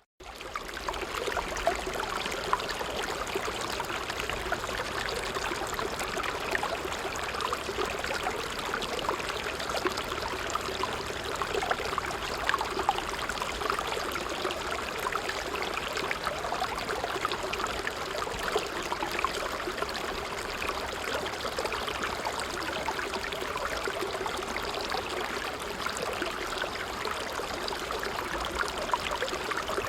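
A creek's running water, an even, steady rush of flowing, trickling water. It returns after a momentary break at the very start.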